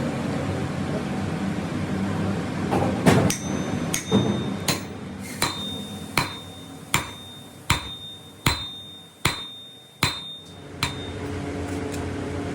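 A hammer striking steel about a dozen times at an even pace, each blow leaving a brief high metallic ring, over a steady workshop machine noise that fades while the blows go on and returns near the end.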